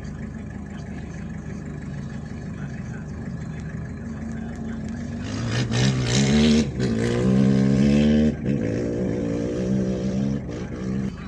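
An off-road rally vehicle's engine approaching and passing at speed, revving up and shifting gears, loudest about six to eight seconds in and fading near the end. A low steady rumble comes before it.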